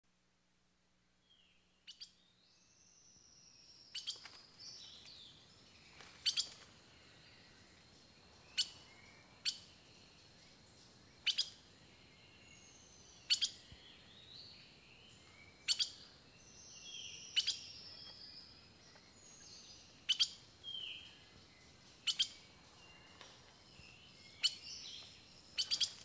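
Songbirds calling: sharp chips every second or two and short falling whistles, starting about two seconds in, over a faint steady background hiss.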